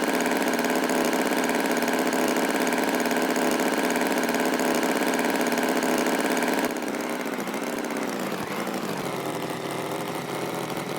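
Tractor engine running steadily with a dense, even hum. About seven seconds in it drops to a quieter run, and the pitch dips and rises a couple of times.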